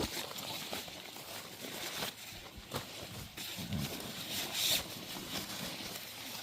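Scattered rustling and light knocks, with a brief low murmur about four seconds in.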